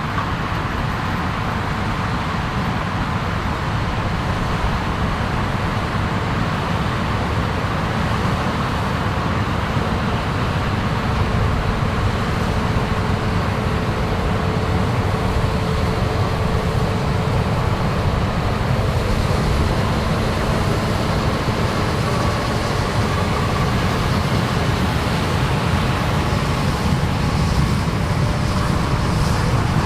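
Heavy farm harvesting machinery running steadily in a corn field, a continuous low engine noise that grows slightly louder over the stretch.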